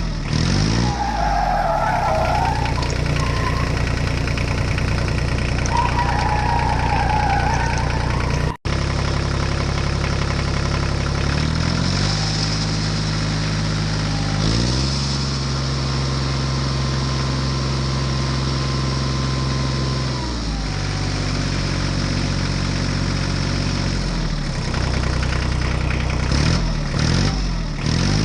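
Vehicle engine running steadily. Its pitch steps up about 12 seconds in and again near 15 seconds, then drops back about 20 seconds in. The sound cuts out for an instant about 8 seconds in.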